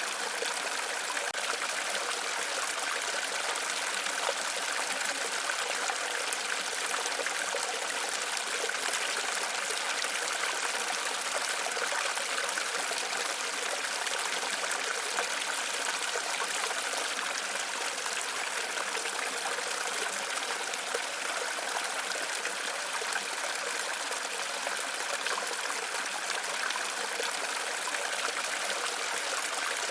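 Waterfall water rushing and splashing in a steady, unchanging hiss with little deep rumble.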